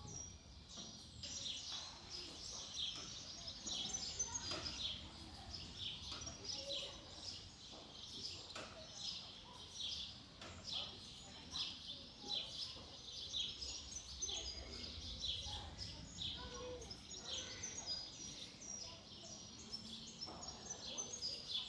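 Small birds chirping over and over, short high calls overlapping one another, over a low outdoor background hum.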